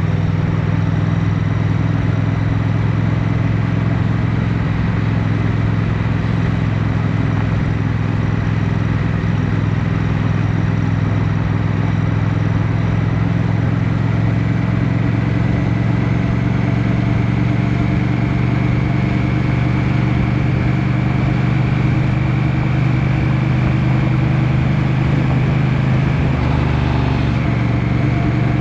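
Motorcycle engine running steadily under way, its note rising slowly in the second half as the bike gathers speed.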